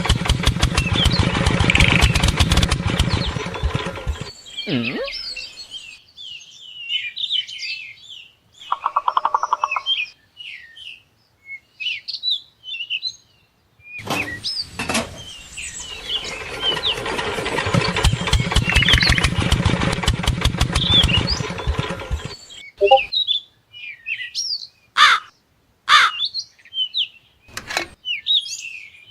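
A small motor runs with a fast, even rattle for about four seconds, stops, then runs again for about seven seconds in the middle. Birds chirp in the gaps between and after, and a few sharp clicks come near the end.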